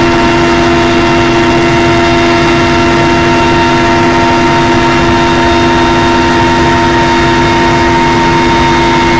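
Helicopter in flight: loud, steady engine and rotor noise with several steady whining tones over it.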